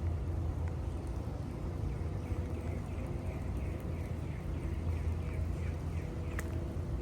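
Steady low rumble of outdoor city ambience. About two seconds in, a bird gives a run of short, falling chirps, about three a second, lasting some four seconds.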